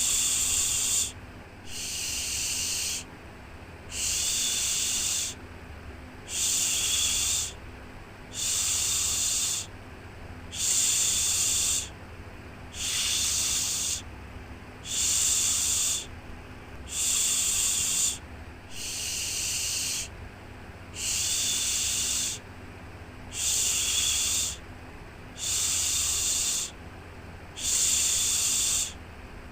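Rhythmic 'shhh' shushing for soothing a baby: one long hiss about every two seconds, with short quiet gaps between, over a faint low steady hum.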